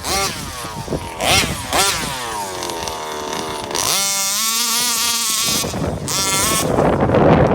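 34cc two-stroke engine of an RC Baja buggy, revved in several short throttle blips, its note falling off between them. It is then held high and wavering for about a second and a half. Near the end the sound turns rougher and noisier.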